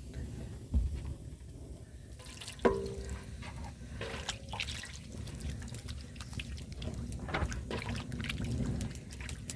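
Water dripping and trickling, with many small drips in the second half. A dull thump comes about a second in, and two sharp knocks with a brief ringing tone come near three and four seconds.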